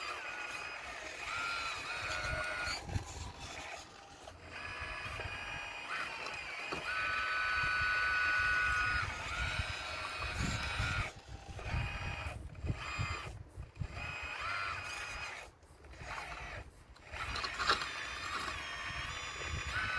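Electric motors of a radio-controlled model excavator whining in short on-off spells, the pitch stepping up and down as the controls are worked. Underneath are an irregular low rumble and occasional knocks from stones being moved.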